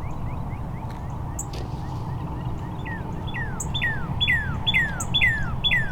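A songbird singing a series of clear whistled notes that slide downward, about two a second, starting about three seconds in and growing louder. Fainter short chirps come before them.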